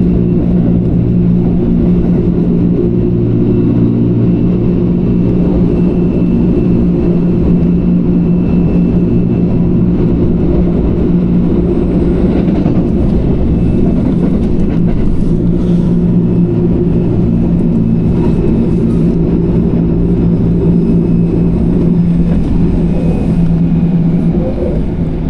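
A train running along the line, with a steady low hum and rumble of its motors and wheels on the rails. The hum eases for a few seconds about halfway, then comes back, and the sound drops off slightly near the end.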